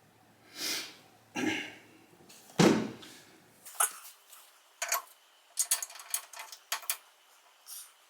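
Metal parts being handled and fitted: a few scrapes, a thud about two and a half seconds in, then a run of short metallic clicks and clinks, as a motorcycle center stand and its bolts are put in place.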